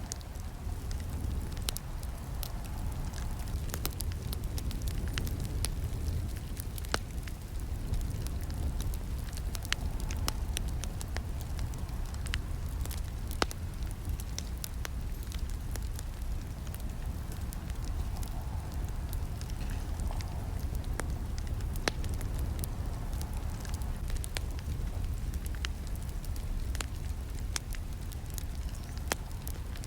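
Campfire burning: a steady low rumble of flames with frequent, irregular sharp crackles and snaps from the burning wood.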